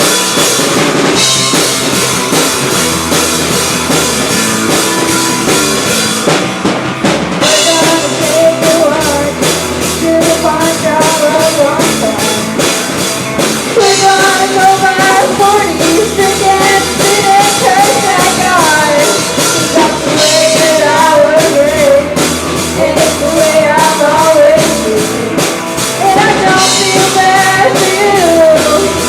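Live rock band playing loudly: drum kit, electric guitar and bass, with a voice singing over it from about eight seconds in.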